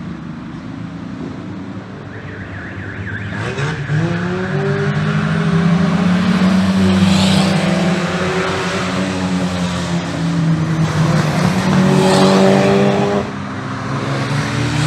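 Car engines on a race circuit, accelerating and passing, the engine note rising and falling as they rev and change gear. Loudest about halfway through and again near the end, then dropping off suddenly.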